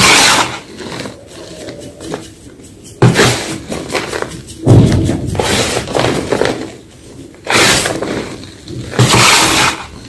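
Fresh white gym chalk crunching in five loud crisp bursts, each breaking and crumbling for under a second, with quieter gaps between.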